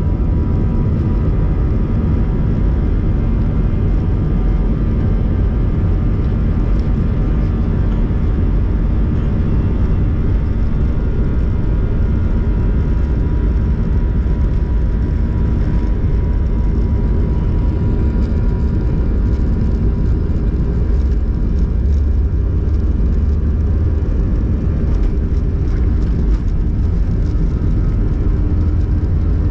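Steady cabin noise of an Airbus A321-111 heard from a window seat: an even rumble of CFM56 turbofan engines and airflow, with a faint steady whine.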